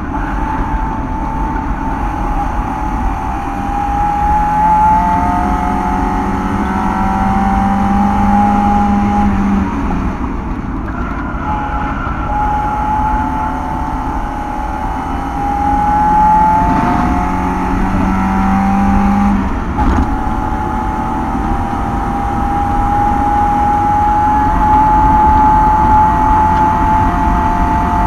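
A Mazda Miata NA's inline-four engine, heard from inside the cabin, pulling hard on a track lap. Its note climbs slowly in pitch and breaks off twice, about ten and twenty seconds in, over a steady rumble of road and wind noise.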